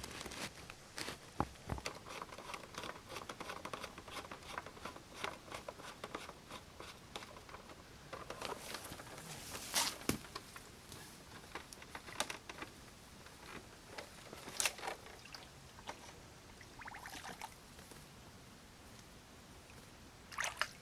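Irregular clicks, taps and small wet squishing sounds of hands-on work, with a few sharper knocks scattered through.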